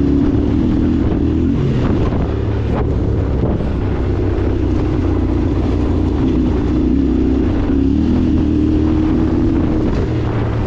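Yamaha Ténéré 700's parallel-twin engine running steadily under way, its pitch drifting a little up and down, with wind buffeting the microphone.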